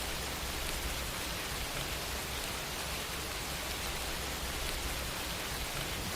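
Steady hiss with a faint low hum: the recording's background noise floor, with no other event.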